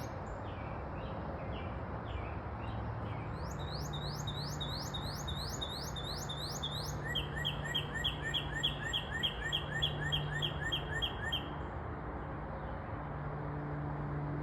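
A bird singing. It gives a few soft notes, then a run of about ten quick rising whistles, then a faster series of short repeated notes that stops. All of it sits over a steady low background rumble.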